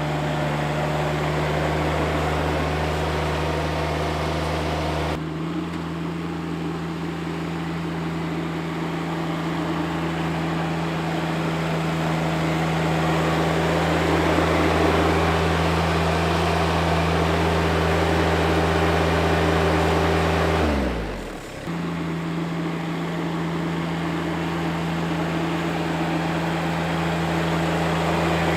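John Deere X748 garden tractor's engine running steadily. Its pitch drops sharply and briefly about 21 seconds in, then it resumes.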